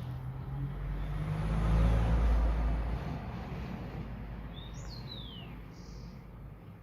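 A vehicle passing by, its rumble swelling to its loudest about two seconds in and then fading away. A bird gives a short, falling chirp about five seconds in.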